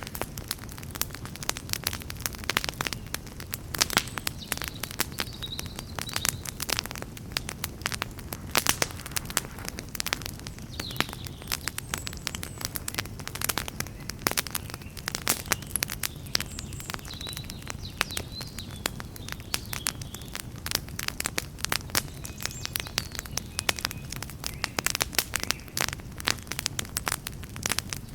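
Wood campfire burning and crackling, with frequent irregular sharp pops and snaps over a soft, steady low rumble of the flames.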